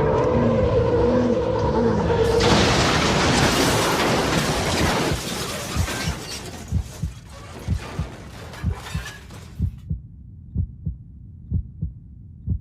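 A loud noisy crash with shattering cuts in a couple of seconds in and fades over a few seconds. It gives way to a slow, regular heartbeat sound effect of low thumps, about one to two a second.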